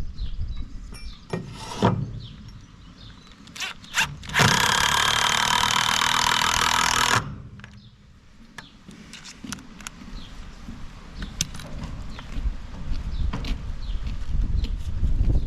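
Power drill boring into a wooden gate for about three seconds, starting about four seconds in, with scattered knocks and clatter from handling the gate and its hinge fittings.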